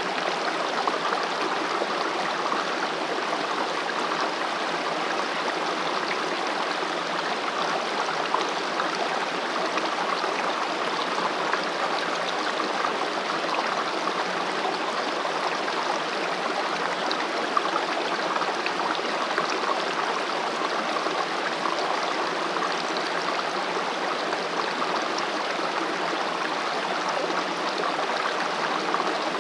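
Mountain valley stream rushing and gurgling over rocks, a steady, even flow of water.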